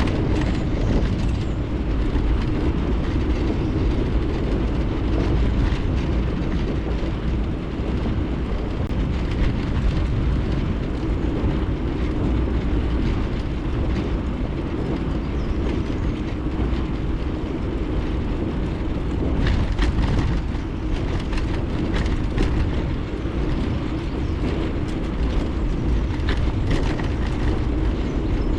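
Bicycle ride heard through a GoPro's microphone: a steady low rumble of wind on the microphone and tyres rolling, with a few light clicks in the second half.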